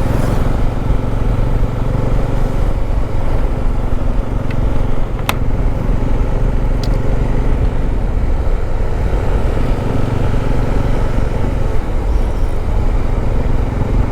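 Motorcycle engine running at a steady pitch while riding at a constant speed, with a sharp click about five seconds in.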